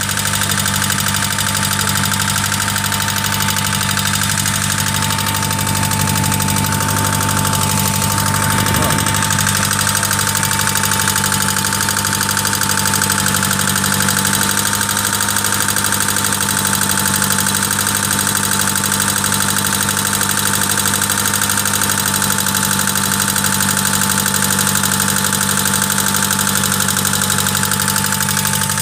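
Car engine idling steadily, heard close up from inside the engine bay, with a steady high whine over the engine note.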